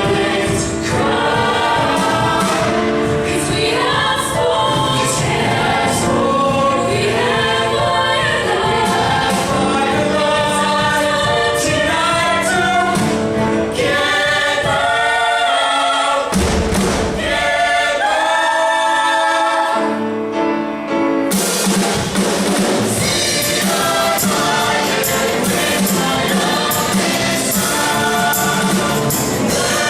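A vocal group singing a song in harmony over instrumental accompaniment. The bass drops away about halfway through and comes back fuller and brighter some six seconds later.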